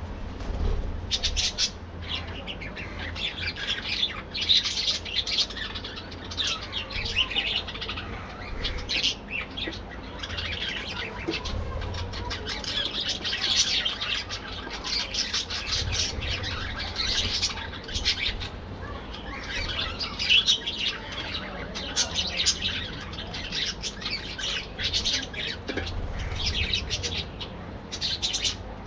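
A colony of budgerigars chirping and chattering continuously, many short calls overlapping.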